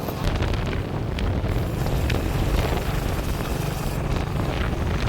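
Engine running steadily at a low hum, with wind buffeting the microphone.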